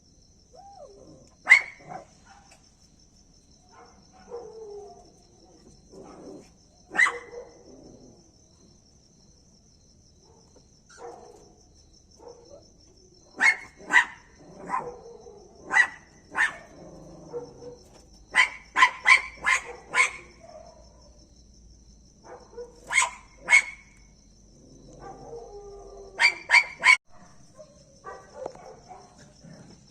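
Dog barking in short sharp barks, singly and in quick runs of three to five, with softer low whines between them. Crickets or other insects trill steadily in the background.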